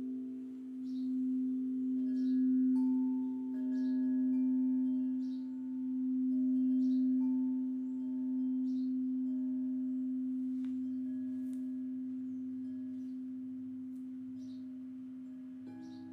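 A singing bowl holds a steady low tone that swells and eases for about eight seconds, then rings down slowly; a second, higher bowl tone comes in near the end. A bird chirps about once a second throughout.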